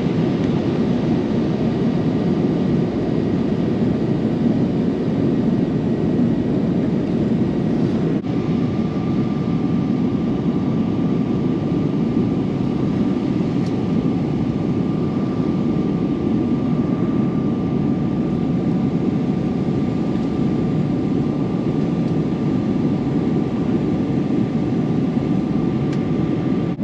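Steady roar of an airliner's jet engines and airflow heard inside the passenger cabin, with a faint steady whine over it.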